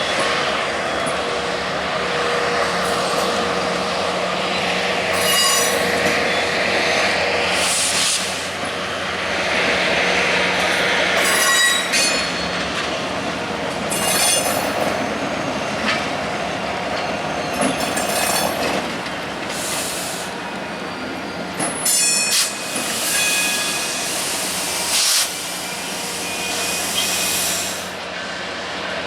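Freight train cars rolling past with a steady rumble of wheels on rail, and short high-pitched wheel squeals several times along the way.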